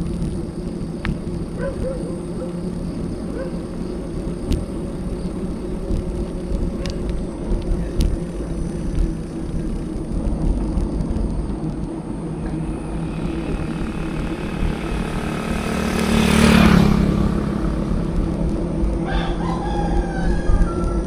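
Steady wind and road rumble on a bicycle-mounted action camera, with a motor vehicle passing that grows louder, peaks about three-quarters of the way through and fades. A rooster crows near the end.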